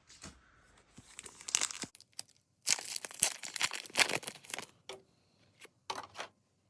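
A trading-card pack being torn open, its wrapper crinkling and rustling. The loudest tearing comes in a spell from about three to four and a half seconds in, followed by a few small rustles.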